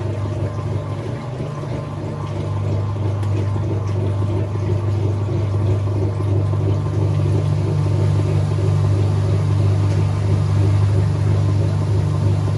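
Whirlpool top-loading washing machine running with a steady motor hum that grows louder over the first few seconds and then holds, the drum getting up to spin speed.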